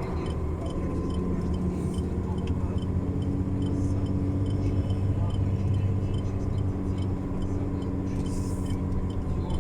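Semi-truck's diesel engine running at steady revs, heard from inside the cab.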